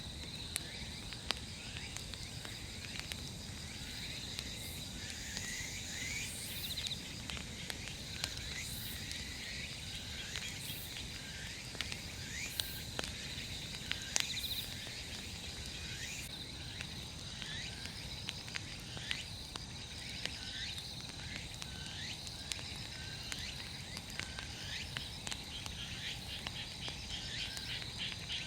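Insects trilling steadily, with repeated short chirps every second or two, over scattered sharp crackles and a low rush from a large wood bonfire.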